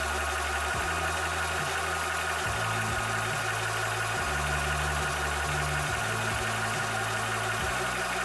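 Cobra high-pressure PCP air compressor running steadily while pumping, a continuous mechanical hum and hiss with a steady whine.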